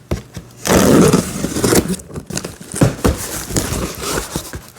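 A cardboard shipping box being opened by hand: flaps and packing scraping and rustling in irregular bursts with small knocks, loudest about a second in.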